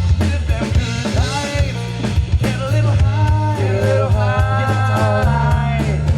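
Live rock-funk band playing: a drum kit keeping the beat under a bass guitar line and electric guitar, with a melodic line rising above them about halfway through.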